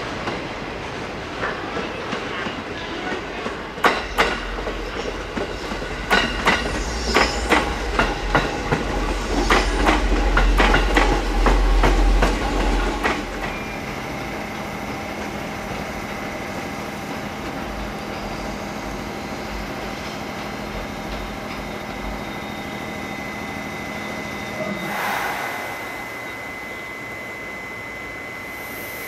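Trains passing close by: a heavy rumble with wheels clacking rapidly over rail joints for the first half, cutting off abruptly. Then a steady low hum with a thin, steady high whine, and a short hiss near the end.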